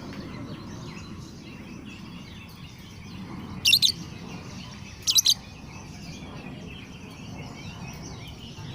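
Lovebird chirping, a steady run of faint chirps broken by two short, loud, shrill calls, about three and a half and five seconds in.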